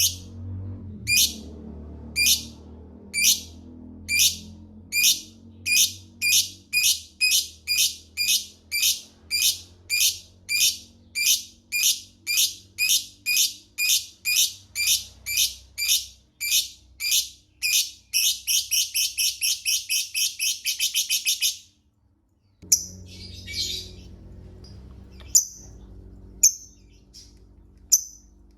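Lovebird giving sharp, high ticking calls that start about once a second and speed up steadily, then run into a fast continuous chattering trill lasting about three seconds that stops abruptly: the 'ngetik' ticking leading into the long 'ngekek' chatter prized in fighter lovebirds. A few scattered single calls follow after a short pause.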